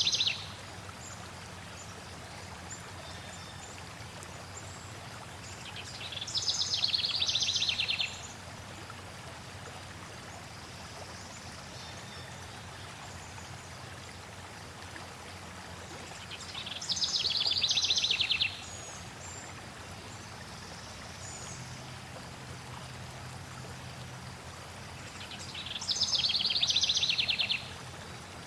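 Flowing water running steadily, with a songbird singing a short, rapid trilled phrase three times, about ten seconds apart.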